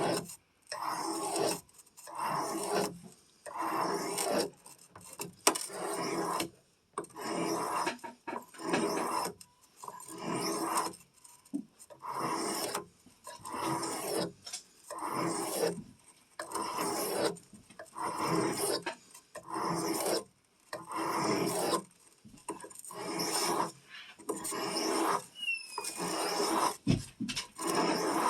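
Knife blade stroked over a sharpening stone in steady, even scraping strokes, a little more than one a second.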